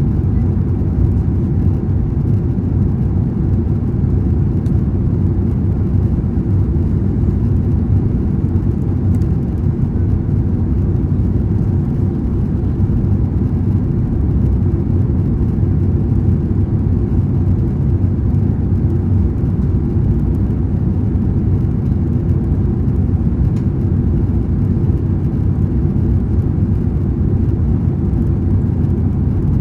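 Steady cabin noise inside a Boeing 767-300ER airliner in flight: a constant low drone of engines and airflow, heard from a rear window seat.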